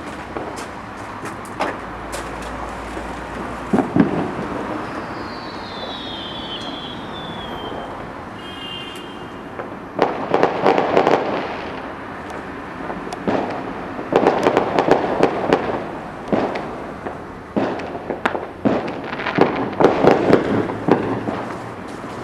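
Fireworks going off: a steady crackle with scattered pops, a short falling whistle about five seconds in, then from about ten seconds in repeated bursts of rapid bangs and crackling.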